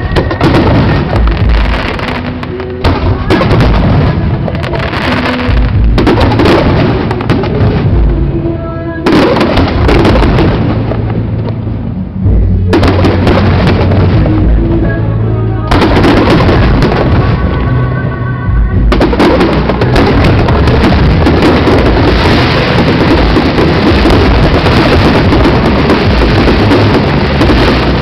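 Aerial fireworks bursting, loud, with many sharp bangs and, from about two-thirds of the way in, a dense unbroken crackle of shells going off together. Music plays underneath.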